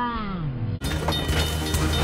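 A drawn-out cry that slides down in pitch and is cut off abruptly just under a second in, followed by music over a noisy, clattering mix.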